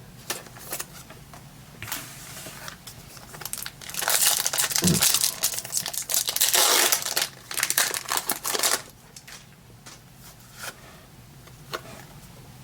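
Foil Pokémon booster pack wrapper being crinkled and torn open, loudest from about four to nine seconds in, with lighter handling clicks before and after.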